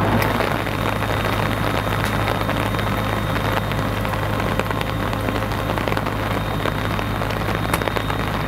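Steady rain, an even hiss with scattered faint drop ticks, over a low steady hum.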